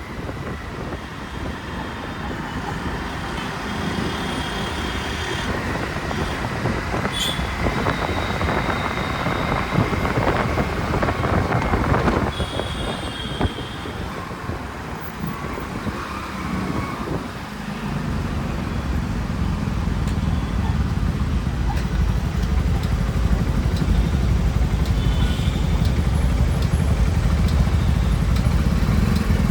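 City road traffic heard from a moving motorcycle: a steady mix of engine and tyre noise with passing vehicles. A heavier low rumble sets in a little past halfway and grows louder toward the end.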